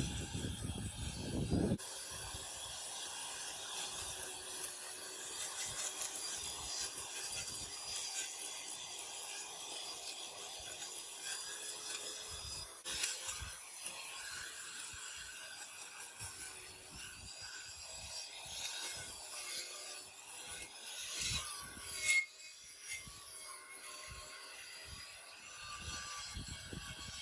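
Continuous scraping and rubbing of hand work on a part, with a louder low rumble in the first two seconds and a single sharp knock near the end.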